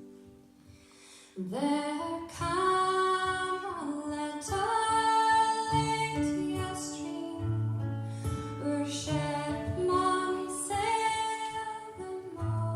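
Scottish folk band playing live, with a woman's voice singing over fiddles and accompaniment. After a quiet opening, the full band comes in about a second and a half in.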